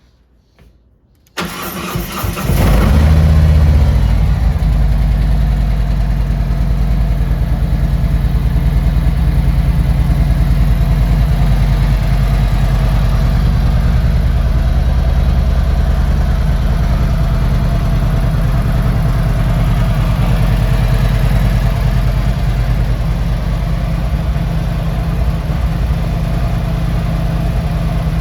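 2017 Harley-Davidson Road Glide Ultra's Milwaukee-Eight 107 V-twin being started: the starter cranks briefly a little over a second in, the engine catches, and it settles into a steady, pulsing idle.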